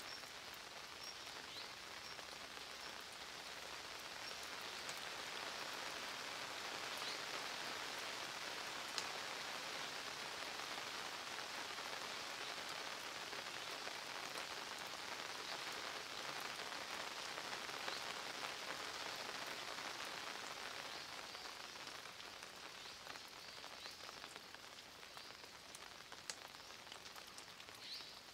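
Steady rain falling on a dry-stone wall, with a few sharper single drips standing out. It swells a little in the middle and eases slightly toward the end.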